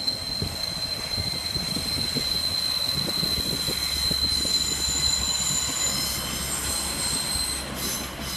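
Class 142 Pacer diesel railbus moving off through the station pointwork. Its wheels give a steady high squeal on the curves, joined by a second, higher squeal from about halfway to near the end, over the low rumble of the engine and wheels.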